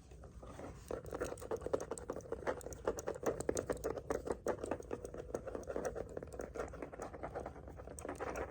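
Rapid, dense fingernail tapping and clicking close to the microphone, starting about a second in and running on as a fast patter.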